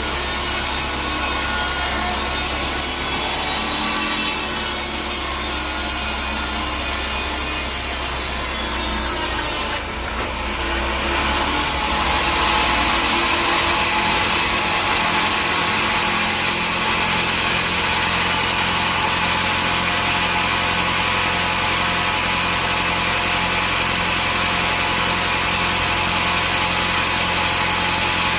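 Sawmill saw cutting through a teak log: a loud, steady sawing noise over the hum of the machine's motor. About ten seconds in, the cutting sound briefly drops away, then picks up again with a harsher high edge.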